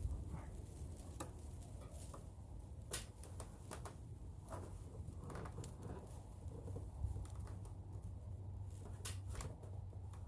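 Scattered light clicks and taps of hands handling tools and parts in an engine bay, a few sharper ones among them, over a steady low hum.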